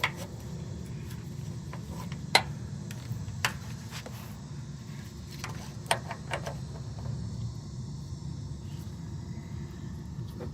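A few light clicks and knocks of things being handled and set down, over a steady low hum.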